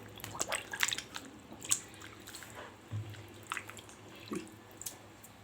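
Irregular small clicks, taps and drips of handling sounds, over a faint low hum.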